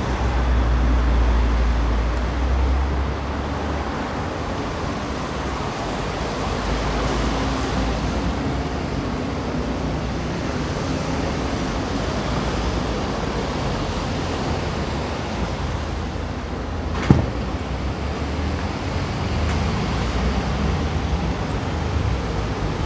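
Steady low rumble and hiss of road traffic, heavier in the first few seconds, with a single sharp click about 17 seconds in.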